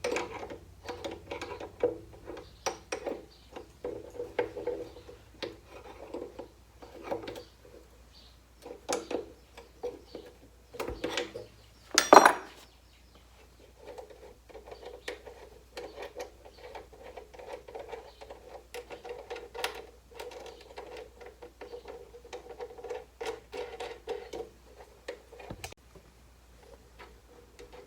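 Small metal parts and hand tools being handled and fitted: irregular clinks, taps and rattles throughout, with one louder metal clang about twelve seconds in.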